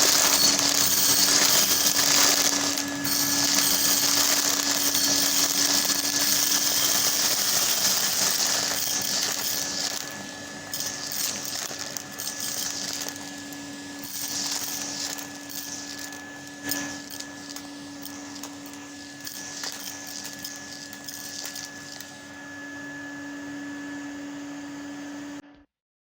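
Henry cylinder vacuum cleaner running and sucking up beads, which rattle and click through the hose over a steady motor hum. It is louder for the first ten seconds, then quieter with scattered clicks, and the motor cuts off suddenly near the end.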